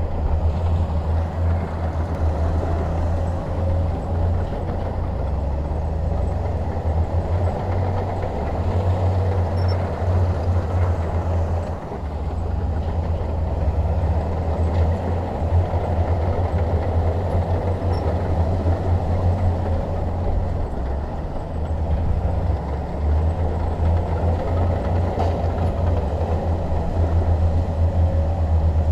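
Shantui DH17 bulldozer's diesel engine running steadily with a deep low rumble as the machine works, its level dipping briefly a few times.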